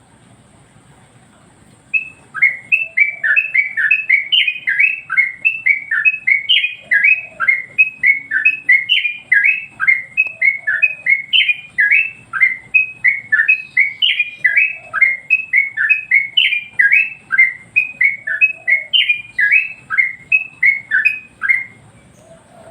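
Yellow-vented bulbul (trucukan) singing a long, fast series of short down-slurred notes, about three a second. The song starts about two seconds in and runs almost to the end.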